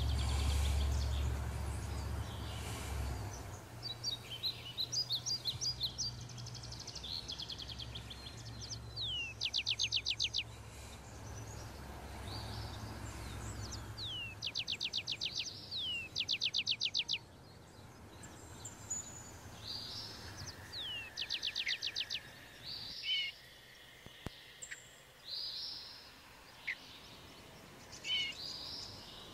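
Birds singing: several trills of quick repeated down-sweeping notes and assorted short chirps. A steady low hum runs underneath and fades out about halfway through.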